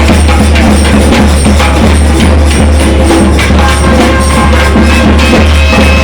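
Loud, dense percussion music: rapid drum strokes with a clattering metallic rattle over a heavy low rumble, and a few held pitched tones above.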